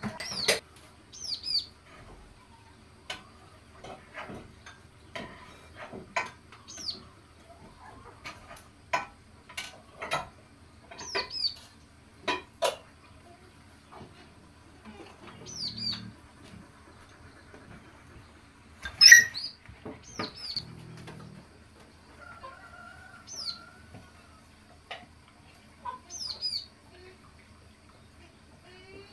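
Birds chirping in short, high calls every few seconds, over scattered clicks and knocks, with one louder sharp call or crack about 19 seconds in.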